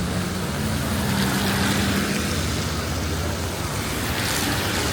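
Street traffic: a motor vehicle's engine running close by with a steady low hum that shifts slightly in pitch, over a constant hiss of city noise.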